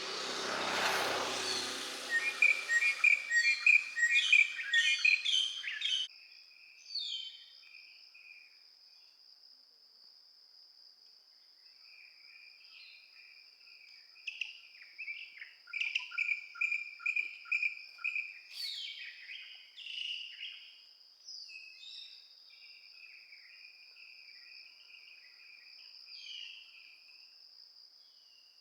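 Wild birds chirping and calling in quick repeated notes, loudest about two to six seconds in and again in a busy stretch midway, after a brief rush of noise at the very start. A steady high insect drone runs beneath the birds from about six seconds on.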